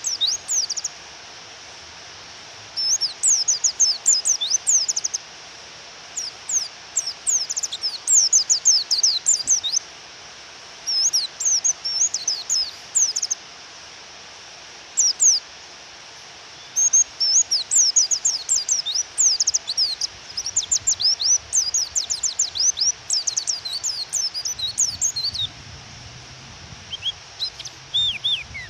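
White-eye (pleci) giving the female's call: bursts of rapid, high, falling chirps, each lasting one to three seconds with short pauses between, over a steady hiss of rain. The call is played to provoke male white-eyes into singing.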